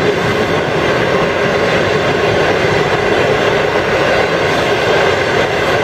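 Passenger train coaches passing close by without stopping: a loud, steady rumble of steel wheels running on the rails.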